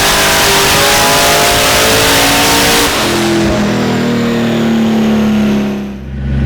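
Twin-turbo C6 Corvette ZR1's V8 making a full-throttle dyno pull in third gear. About three seconds in it lets off and winds down, with a faint high whistle falling along with it, and it drops to idle near the end.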